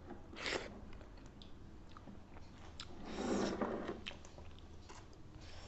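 Close-miked eating sounds: a person chewing food, with small wet mouth clicks, a short noisy burst about half a second in and a longer, louder one around three seconds in.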